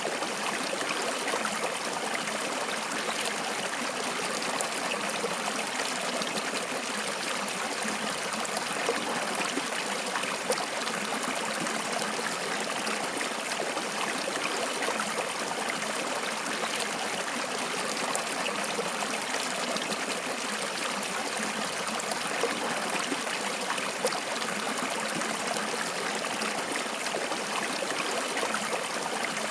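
Water flowing in a stream: a steady, even rush and trickle.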